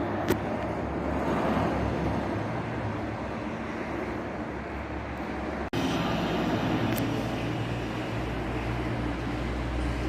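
Heavy road vehicle engine running with a steady low rumble over street noise. The sound cuts out for an instant about halfway through, then carries on.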